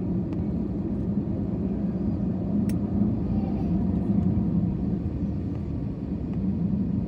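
Steady low rumble of an airliner's engines and airframe heard from inside the passenger cabin.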